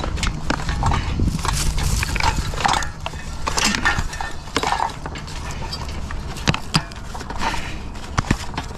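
Fan blades being wrenched and bent by hand to break them off, with irregular knocking and scraping and a few sharp clicks in the second half; the blades resist breaking.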